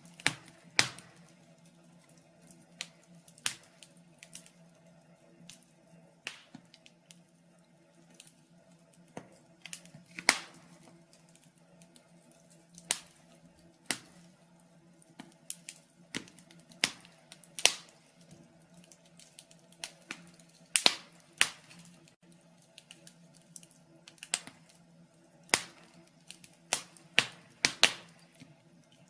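Wood fire in a fireplace crackling, with sharp irregular pops every second or so over a faint steady low hum.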